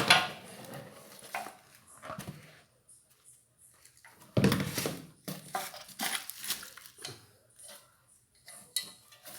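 Ceiling fan light fixture parts being handled and unpacked: irregular clinks, knocks and rustles, with a louder knock at the start and another about four and a half seconds in.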